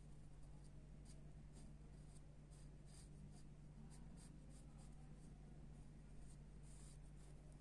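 Faint pencil strokes scratching on paper, short and irregular, many in quick succession, over a steady low electrical hum.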